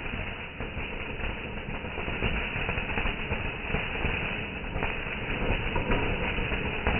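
Fireworks crackling and rumbling in a continuous, dense mix of small pops.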